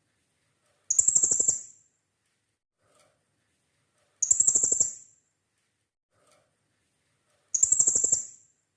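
Blue-crowned hanging parrot (serindit) calling: three short, shrill, rapidly pulsed trills, evenly spaced about three seconds apart.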